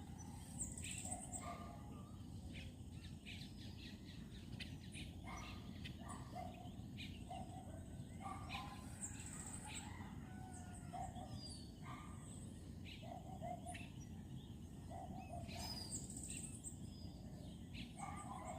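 Birds chirping and calling, short notes repeated over and over, faint over a steady low background rumble.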